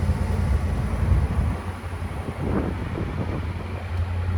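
1957 Ford Thunderbird's 312 cubic-inch Y-block V8 idling steadily with an even low hum.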